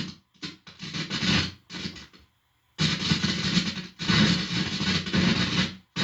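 Guitar amplifier putting out loud buzzing hum and crackling static in uneven bursts as an instrument cable's bare tip is held against the forehead. The static breaks up in the first two seconds, stops briefly, then runs more steadily from about three seconds in. He takes it for narrowband directed-energy pulses.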